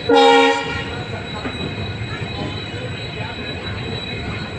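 A train horn gives one short blast, then a train rumbles on steadily.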